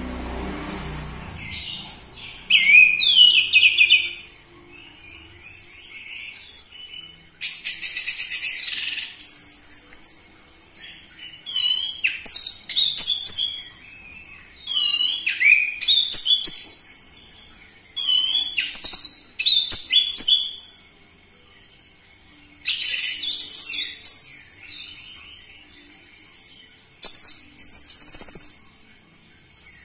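Orange-headed thrush singing loud, varied phrases of whistles and rapid trills, each a second or two long, with short pauses between.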